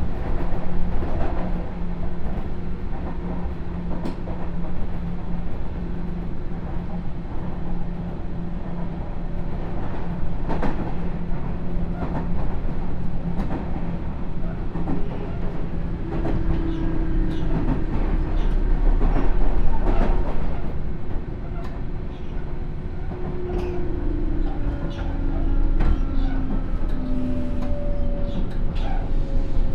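Onboard running sound of a Sotetsu New 7000 series train with a Hitachi GTO-VVVF inverter: wheels running on rail with scattered clicks of rail joints over a steady hum. In the second half the motor and inverter tone falls in pitch in steps, as the train slows.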